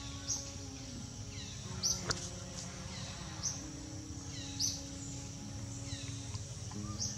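A bird calling over and over: short high chirps about every second and a half, each trailing into a falling note, over faint low sustained tones.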